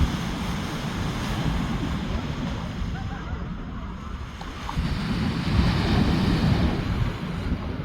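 Surf washing on the shore with wind buffeting the microphone, the rumble easing in the middle and swelling again about five seconds in.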